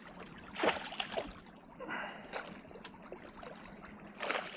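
Water splashing and trickling beside a kayak while a hooked bass is being fought toward the net, with short splashes about a second in and again near the end.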